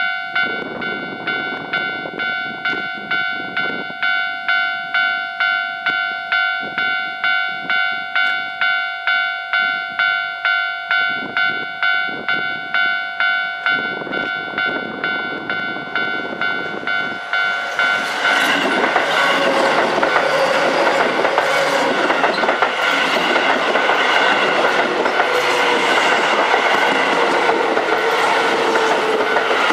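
Level-crossing warning bell ringing in repeated electronic dings, a little under two a second. About 18 s in, a Keio 7000 series electric train runs over the crossing, its wheels clattering on the rails, much louder than the bell.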